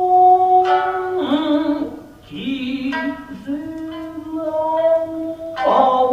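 Japanese classical dance music: a singer holding long, wavering notes over plucked shamisen.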